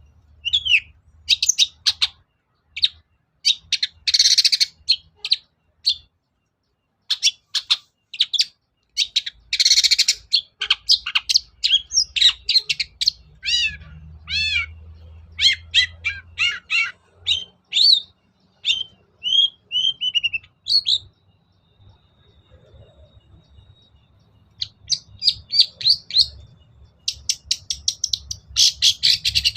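Long-tailed shrike singing a varied, chattering song of rapid sharp chirps, harsh scratchy notes and downward-sliding whistles, with a pause of about three seconds past the middle before a fast run of notes near the end.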